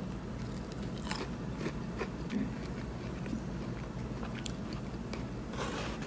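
A person biting into and chewing crispy fried chicken, with scattered crunches and a small cluster of them near the end.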